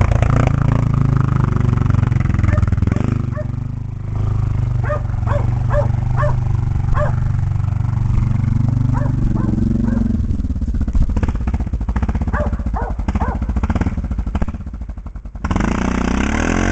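ATV engine running steadily at low revs, with a dog barking in short runs of several barks from about four seconds in.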